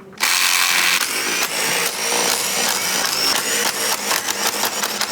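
A power tool running loudly with a dense, rapid clatter. It starts abruptly just after the start and runs for about five seconds.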